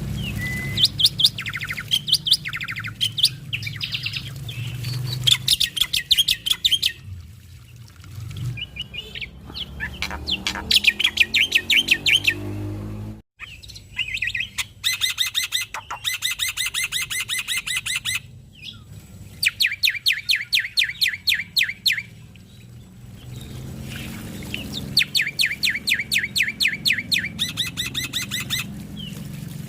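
Male black-winged starling (jalak putih) singing: rapid trains of repeated sharp chattering notes, several a second, each run lasting a second or two with short pauses between, over a faint low hum.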